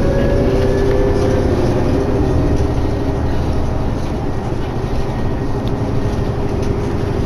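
A 2011 New Flyer D60LFR articulated diesel bus under way, heard from on board: a steady engine and road rumble with a slightly rising drivetrain whine that fades out about three seconds in.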